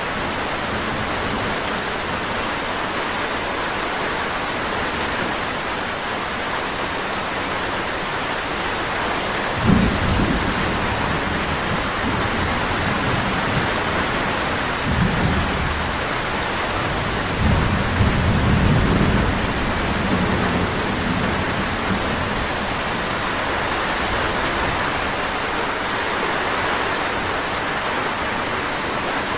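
Steady rainfall hiss. About ten seconds in a deep rumble breaks in sharply and rolls on in several waves for roughly twelve seconds before fading back under the rain.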